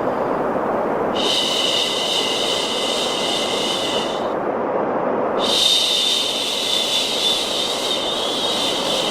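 A long "shhh" shushing sound, repeated with a brief pause between shushes (one ends about four seconds in, the next starts a second later), over a steady bed of low rushing noise.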